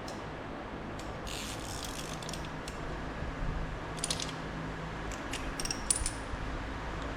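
Metal hand tools clinking, with short bursts of ratchet clicking, over a faint steady low hum.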